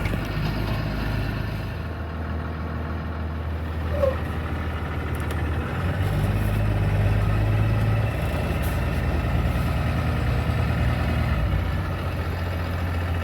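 The school bus's 6.7-litre Cummins inline-six diesel idling steadily, with a brief chirp about four seconds in.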